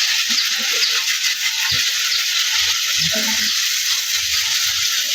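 Water spraying onto a motorbike as it is washed: a steady hiss, with a few faint low knocks underneath.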